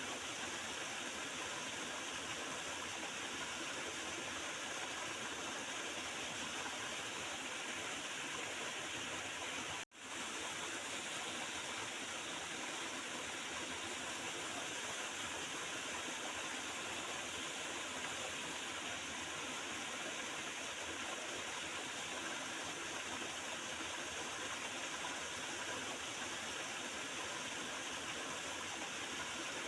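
Water of a small river flowing and gurgling steadily. The sound cuts out for an instant about a third of the way in, then resumes unchanged.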